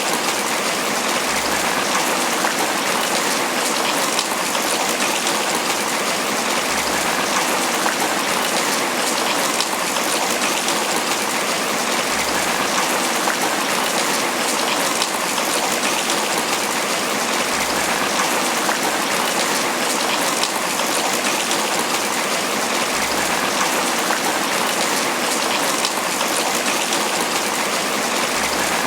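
Steady tropical rain falling on banana leaves, a dense, even patter of drops.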